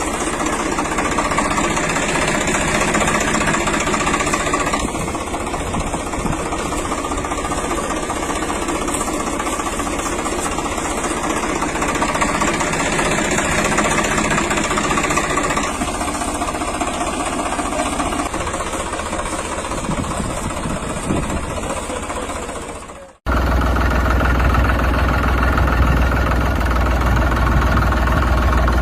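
Tractor engine running steadily. About 23 seconds in it cuts off abruptly and a louder, deeper engine sound takes over.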